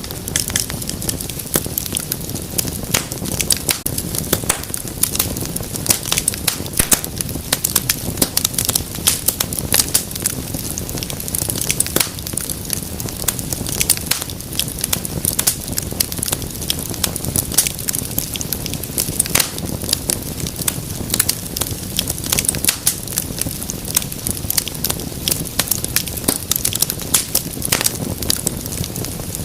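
Wood fire crackling steadily, with many sharp irregular pops and snaps over a low rumble of burning.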